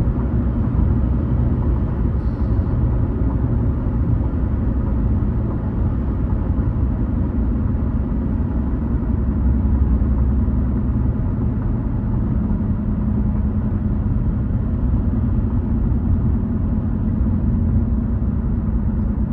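A car driving on a highway, a steady rumble of road and engine noise with a low hum running under it.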